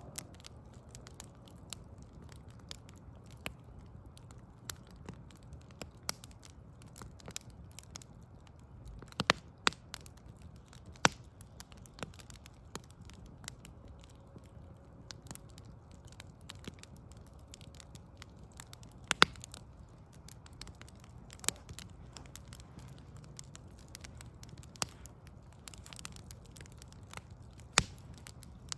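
Backyard wood fire crackling: irregular sharp pops and snaps, a few much louder than the rest, over a steady low background rumble.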